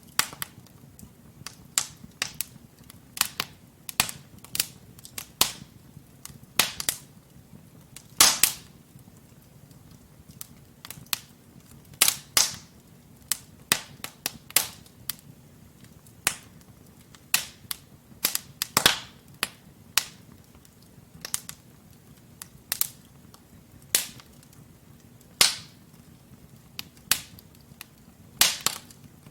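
Wood logs burning in a fireplace, crackling with irregular sharp pops and snaps, several a second at times, over a low steady rush of flame.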